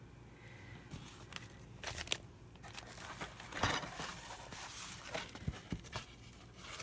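Paper being handled: irregular rustling and crinkling with a few sharp taps, loudest about two and three and a half seconds in.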